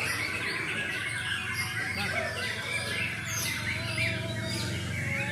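White-rumped shama singing a rapid, varied stream of chirps and quick falling whistles.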